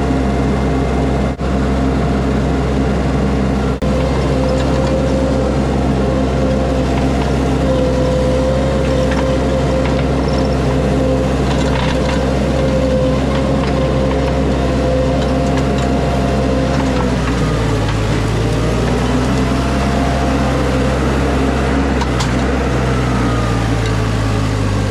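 Mini skid steer's engine running steadily under work, with a hydraulic-like whine; the engine note shifts about two-thirds of the way through.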